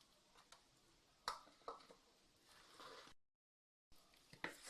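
Near silence, with a few faint clicks and taps and a moment of dead silence where the sound is cut.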